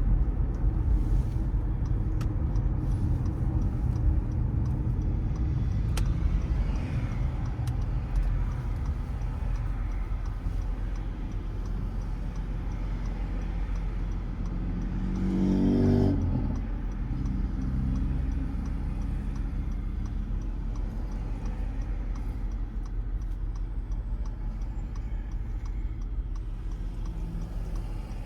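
A car driving through city streets: a steady low engine and road rumble, with a brief swell of rising engine pitch about halfway through as it accelerates.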